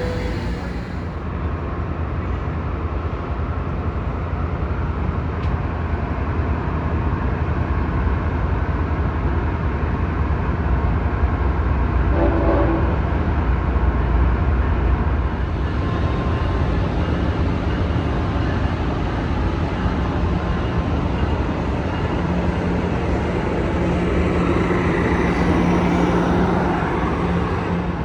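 Diesel train running past at close range: a steady heavy rumble with rail and wheel noise, and a brief tone about halfway through.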